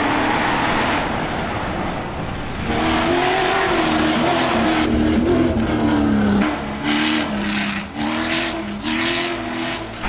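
Off-road rally-raid car's engine revving hard under load, its pitch wavering and dipping in short lifts about two-thirds of the way in and again near the end. Bursts of hiss, tyres or gravel on loose ground, come with it in the later part.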